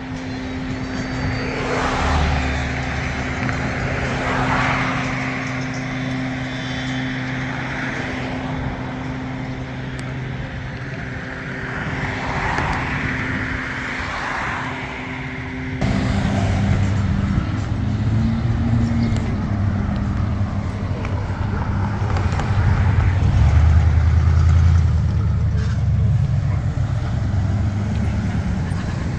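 Car engines running, with an abrupt change about sixteen seconds in to a louder, deeper engine.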